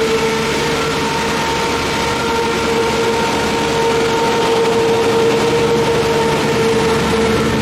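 Diesel multiple-unit train running close by: engine and transmission with a steady whine over a low rumble, swelling slightly in the middle.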